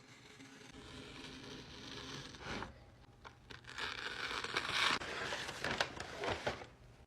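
Paper being torn and crinkled: a sharp snap about two and a half seconds in, one longer rip about four seconds in, then several short tearing crackles.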